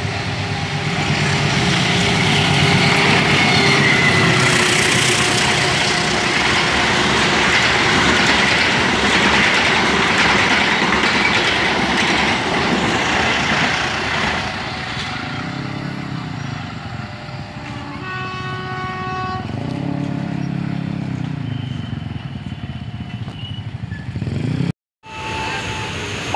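Passenger train running past on the rails: loud wheel-on-rail rumble and clatter from the passing coaches that fades after about 14 seconds as the last carriage goes by. A horn sounds briefly a few seconds later.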